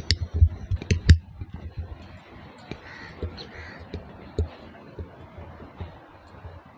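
A few sharp knocks and clicks in the first second or so, then a bird calling faintly twice about three seconds in, over a low steady background.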